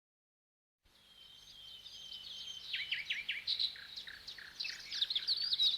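A small songbird singing a rapid run of high chirps and short falling notes. It fades in about a second in and grows louder.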